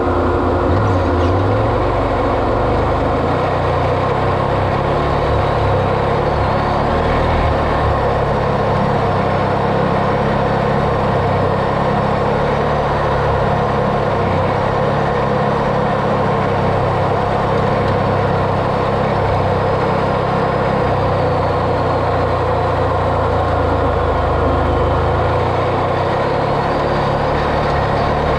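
An off-road vehicle's engine running steadily, with an even drone and a constant pitch that does not rev up or down.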